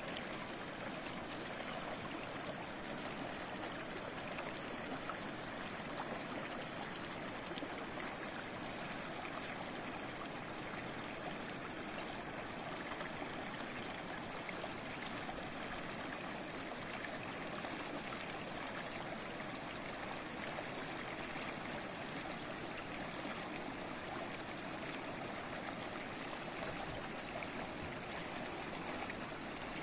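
A small stream babbling and trickling steadily, an even rush of running water with no change in level.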